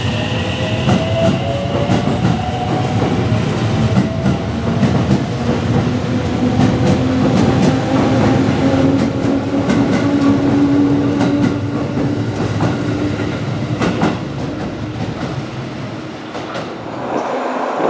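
Electric commuter train running along the platform, its traction motors whining in a slowly rising pitch as it picks up speed, with the wheels clacking over rail joints.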